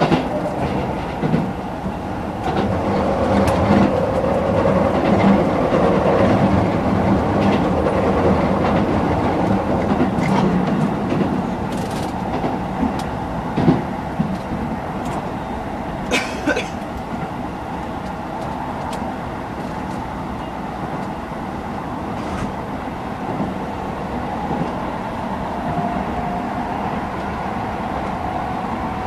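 Running sound of a Keisei 3000-series electric train heard from inside the car: steady wheel-and-rail noise, with a few sharp clicks from rail joints around the middle and a faint steady hum near the end.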